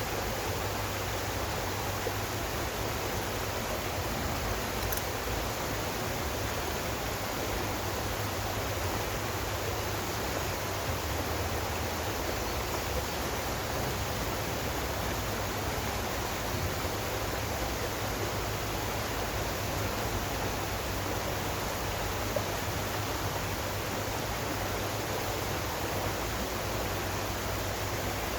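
Running water, a steady rush with no break or change.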